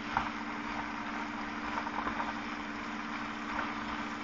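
Chicken and sliced onions sizzling in a frying pan, with faint crackles, over a steady low hum.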